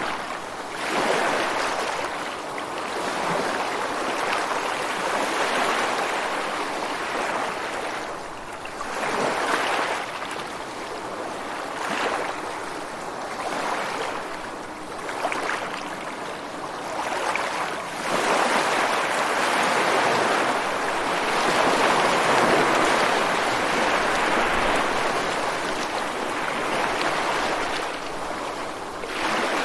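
Ocean waves breaking against rocks on the shore, a continuous wash of surf that swells and recedes every few seconds, with a longer, louder surge in the second half.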